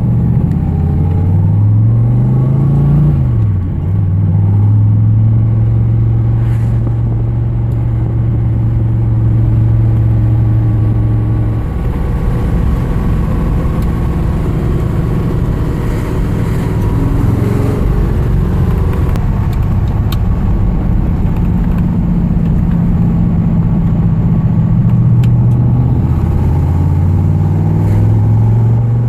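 The 1964 Corvette's 383 stroker small-block V8 running through its dual exhaust: it revs up about two seconds in and drops back, then holds a steady pitch, with smaller changes in engine speed later on.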